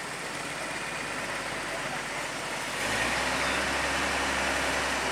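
Heavy truck engine running; its steady low hum comes in and grows louder just under three seconds in, over a haze of outdoor noise and background voices.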